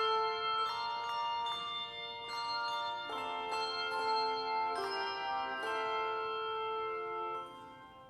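Handbell choir playing a slow piece: chords struck and left to ring, with new notes entering every second or so, the sound fading near the end.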